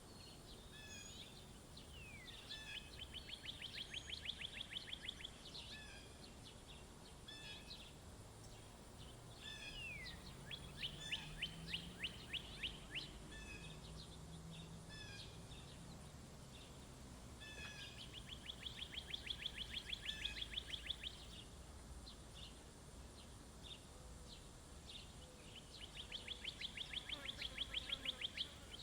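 Songbirds around a feeder: one bird repeats a rapid, even trill about every eight seconds, four times, with scattered short chirps from other birds in between.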